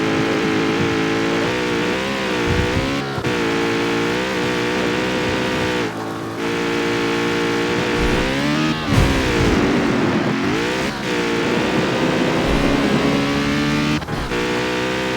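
Jaguar F-Type's supercharged 5.0-litre V8 running under way. Its pitch holds fairly steady, climbs sharply about nine seconds in, sags, and then rises again, with a few brief sharp breaks in the sound.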